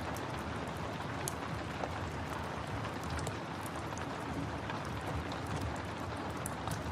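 Steady rain hiss mixed with the irregular sharp pops and crackles of a wood fire burning in a fireplace.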